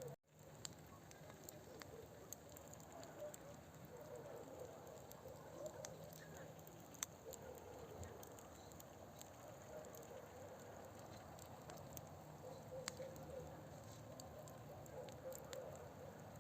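Campfire burning: faint, steady flame noise with scattered sharp crackles and pops from the burning wood. The sound drops out for a moment just after the start.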